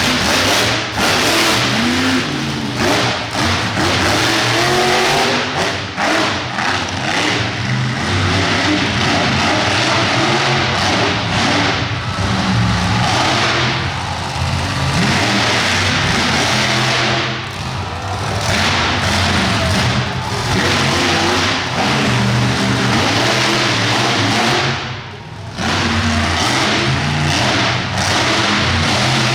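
Monster truck engine running loud, revving up and dropping back again and again, with a brief lull about 25 seconds in.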